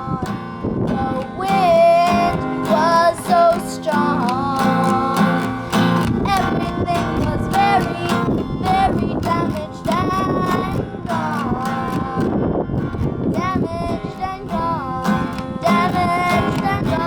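A young girl singing an original song, with acoustic guitar accompaniment.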